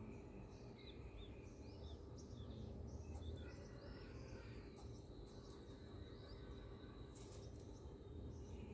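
Quiet outdoor ambience: a low steady rumble with faint, short chirps of small birds, most of them in the first three seconds, and a few faint clicks about seven seconds in.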